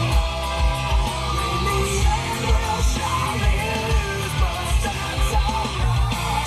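Rock music with electric guitar and a steady heavy bass-drum beat playing from the Volkswagen Phaeton's sound system, heard inside the car's cabin.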